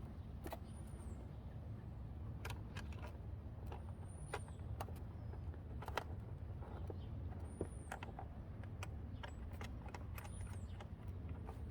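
Scattered small clicks and knocks of metal hardware and fairing brackets being handled and fitted on a motorcycle, over a steady low rumble.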